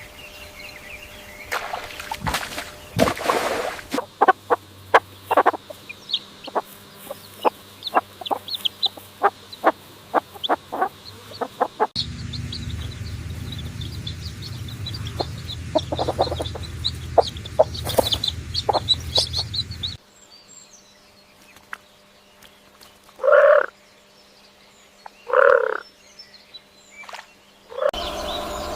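Chickens clucking in several short farmyard recordings joined back to back, each cutting off abruptly. Many quick clucks come in the first part, and two louder, separate calls stand out near the end.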